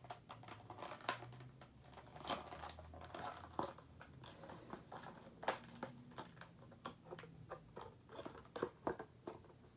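Faint, irregular crinkling, clicking and tearing of a taped package of D batteries being picked and pulled open by hand.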